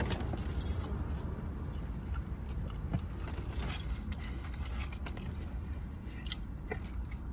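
A man chewing French fries, with faint mouth sounds and small clicks, over a steady low hum in a car's cabin.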